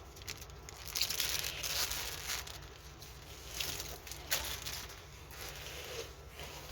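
Crinkling and rustling of plastic film as a diamond painting canvas is handled, in irregular bursts, with a sharp crackle about four seconds in.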